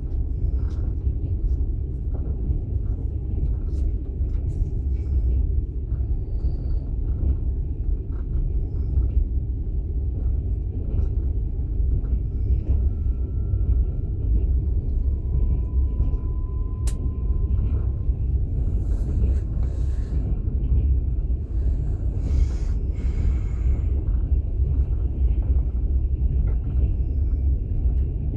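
Steady low rumble of a passenger train running, heard from inside a platzkart sleeper carriage. A couple of short hissy bursts come about two-thirds of the way through.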